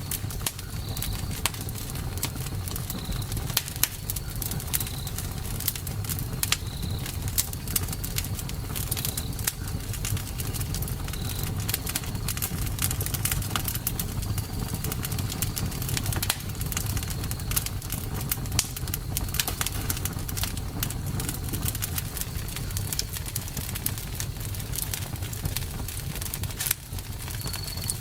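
Campfire burning: dense, irregular crackles and pops of burning wood over a steady low rumble of flames. A faint, high, thin chirp recurs every second or two.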